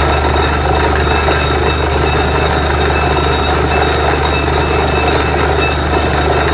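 Truck-mounted borewell drilling rig running steadily at work: a loud, even engine drone with a deep hum and a rough noise over it.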